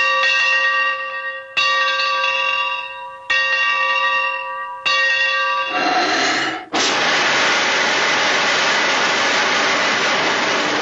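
A bell struck four times, about a second and a half apart, each stroke ringing and fading. Then, from about seven seconds in, a loud steady hiss like escaping steam.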